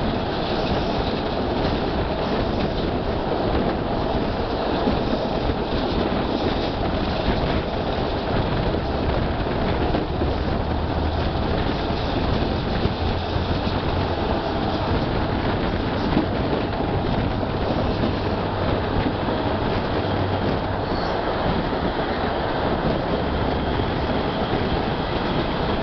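EFVM passenger train running along the track, heard from an open carriage window: a steady rumble of wheels on rails with a faint low hum underneath.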